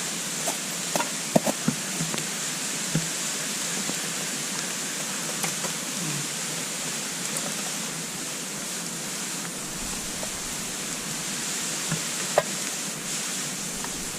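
Small wood fire burning in a compact wood-burning stove: a steady rushing hiss with scattered crackles and pops, several in the first few seconds and a sharp pop near the end.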